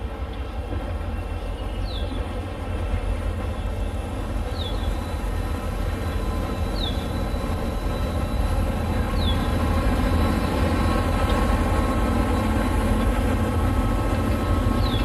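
Diesel locomotive sound running steadily and slowly growing louder, with a short high squeak about every two and a half seconds.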